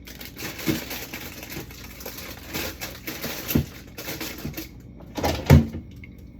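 Bottles and food containers from a fridge being handled, knocking and clattering as they are moved and set down, with plastic crinkling. The loudest knocks come about three and a half and five and a half seconds in.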